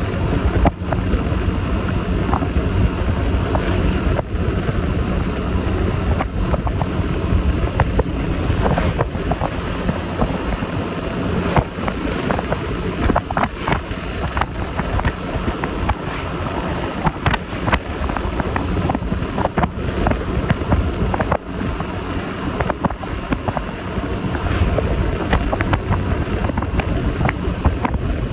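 Wind rushing over the microphone of a moving Yamaha Lexi LX 155 scooter, over its engine running and the road noise of the ride. A steady hum fades out about twelve seconds in, and short knocks and buffets come through now and then.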